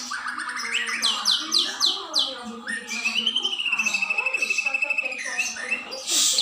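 Several songbirds singing at once, a dense mix of chirps and quick downward-sweeping whistles, with one bird holding a long rapid trill from about three seconds in to about five. A short noisy burst comes near the end.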